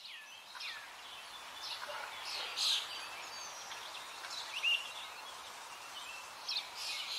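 Birds chirping and calling in short scattered phrases over a faint steady hiss; the loudest calls come a little before the middle and again near the end.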